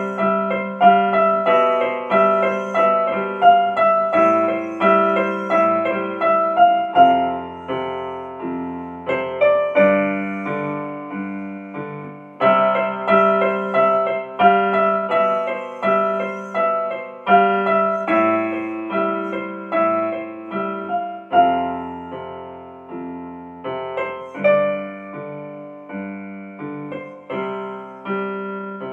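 Solo piano or electric piano music: a melody of struck notes over sustained low bass notes, each note fading after it is struck.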